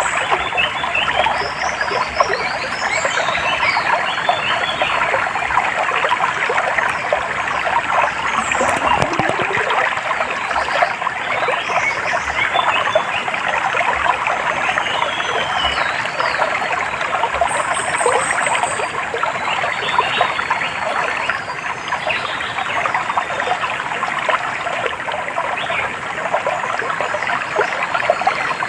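Water trickling and babbling steadily, with small birds chirping in short, high calls throughout.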